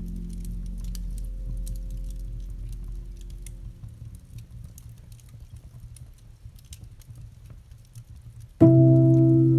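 Campfire crackling in light, scattered pops under a held music chord that fades away over the first few seconds. Near the end a new, louder chord of low steady tones comes in suddenly.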